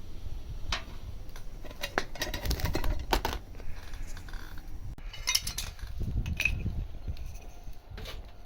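Metal camp cooking gear clinking and knocking: irregular sharp taps and clicks, bunched in two flurries, over a low rumble.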